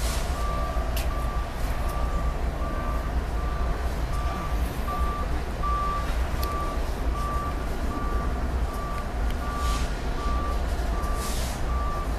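Double-stack container freight train rolling by with a low, steady rumble and a few sharp clanks, under an electronic warning signal beeping on one high tone about twice a second.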